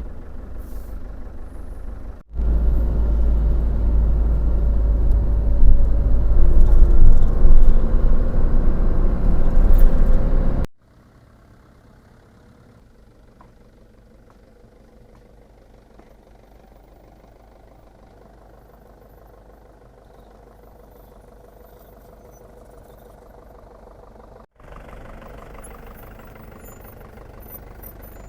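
Iveco bus-conversion motorhome driving, its engine and road noise running across several spliced clips. The sound is loud with a heavy low rumble for the first third, cuts off abruptly, then drops to a much quieter steady hum, rising slightly a few seconds before the end.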